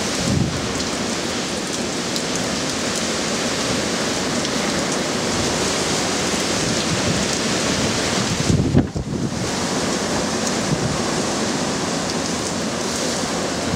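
Heavy hurricane rain pouring steadily with strong wind, with a brief low rumble about nine seconds in.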